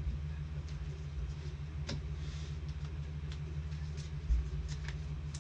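Steady low hum with scattered light clicks, and one low thump about four seconds in.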